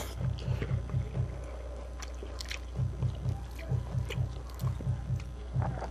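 Close-miked chewing of a mouthful of food, with steady rhythmic jaw strokes about five a second in two runs separated by a pause, and scattered small wet mouth clicks.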